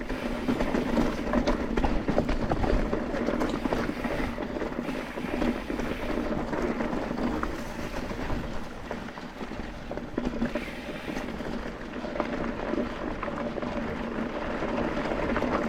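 A mountain bike being ridden along a dirt trail: steady rolling noise with small clicks and wind on the microphone.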